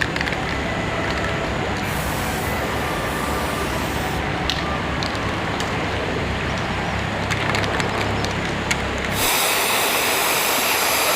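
Electric arc welding on an iron frame: a steady crackling hiss with scattered sharp pops over a low hum. About nine seconds in it gives way abruptly to a different steady hiss with a faint high whine.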